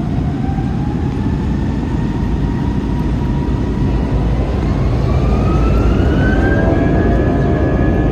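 Airbus A321's jet engines spooling up for takeoff, heard inside the cabin: a deep rumble under a whine that climbs slowly in pitch, then faster and a little louder about five seconds in, levelling off near the end.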